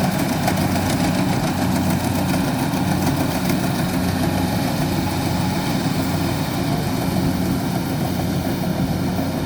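Kubota combine harvester's diesel engine running steadily, with an even low hum.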